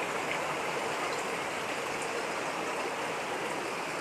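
Heavy rain and running floodwater: a steady, even hiss with no break.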